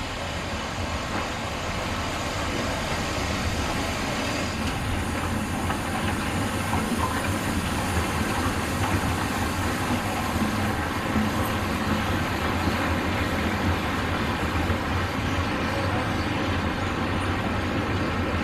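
A train of withdrawn steam locomotives hauled past by a working DR class 50 steam locomotive, its wheels rolling over the rails in a steady rumble that grows louder over the first few seconds.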